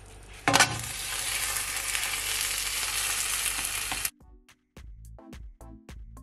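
Olive oil sizzling steadily under a cheese-filled tortilla as it is turned over in a griddle pan, with a sharp knock about half a second in as it goes down. The sizzling cuts off suddenly about four seconds in, and background music with a steady beat takes over.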